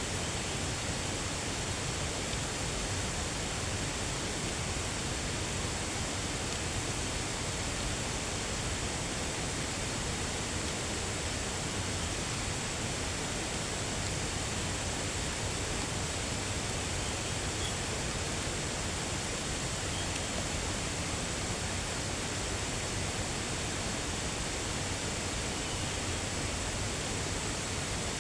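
Steady rush of flowing water, like a stream or small waterfall, at a constant level, with a faint steady high-pitched hum above it.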